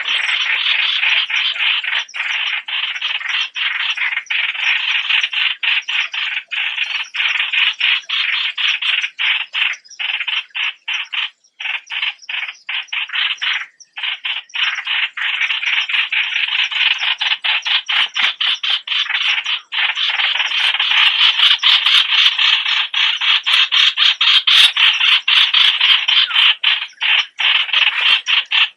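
Streak-eared bulbuls calling: a continuous, dense run of rapid, harsh chattering notes that gets louder about two-thirds of the way through.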